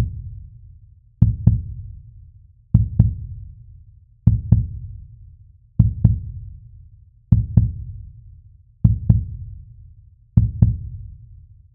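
Heartbeat sound effect: a deep double thump repeating about every second and a half, each pair fading away before the next.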